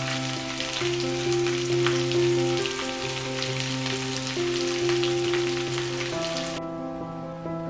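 Prawn skewers sizzling and crackling in oil in a frying pan, over soft background music with held notes. The sizzle cuts off suddenly near the end, leaving only the music.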